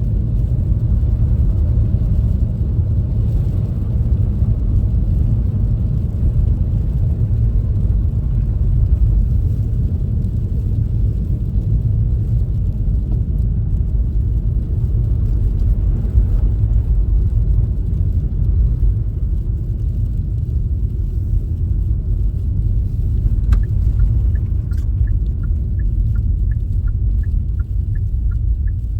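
Steady low rumble of a car's tyres and engine heard from inside the cabin while driving at highway speed on a snow-covered road. Near the end a turn-signal indicator starts ticking, about two ticks a second.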